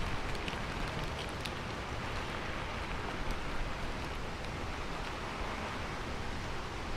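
Steady rain falling on a roof, a dense even hiss with a few sharper individual drops in the first second or so.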